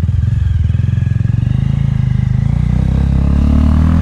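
220 cc motorcycle with an aftermarket Akrapovic exhaust running under way, its engine note rising in pitch from about two and a half seconds in as it picks up speed.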